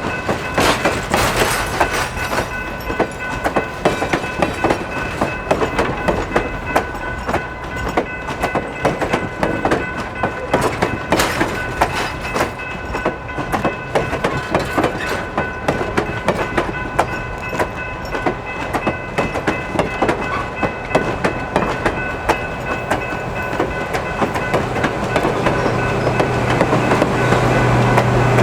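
Central Railroad of New Jersey 0-6-0 steam switcher No. 113 working along at slow speed: a dense, rapid clatter of running gear and wheels over the rail. A few steady high-pitched tones run underneath, and the sound grows louder near the end.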